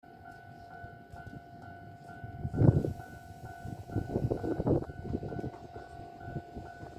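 Electric commuter train standing at a station platform just before departure, with a repeating electronic bell ringing about twice a second throughout. A heavy clunk about two and a half seconds in and a cluster of knocks and rumbles around four to five seconds come from the train.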